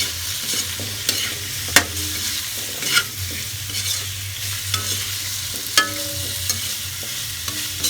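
Diced carrots, potatoes and onion frying in oil in a pan, with a steady sizzle. A utensil is being stirred through them, clicking and clinking against the pan every second or two.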